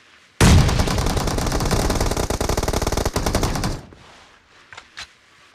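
Automatic gunfire in a shooter video game: one continuous rapid-fire burst of about three and a half seconds that stops abruptly.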